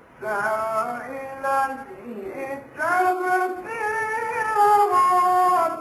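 A man's voice reciting the Quran in melodic tajweed style, drawing out long notes that bend and waver in pitch. After a brief pause for breath about halfway through, a longer, louder held phrase follows that cuts off near the end.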